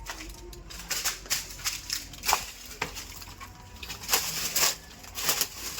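Footsteps crunching and scuffing on dry ground, irregular steps.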